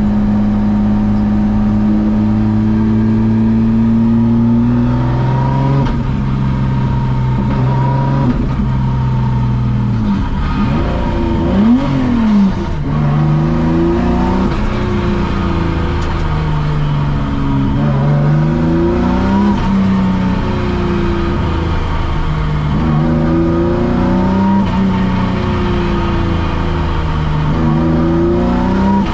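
Nissan Skyline R32 drift car's engine and exhaust under way: a steady cruise for the first few seconds, then revving up and dropping back again and again as it pulls through the gears and backs off. A quick sharp rev blip comes about twelve seconds in.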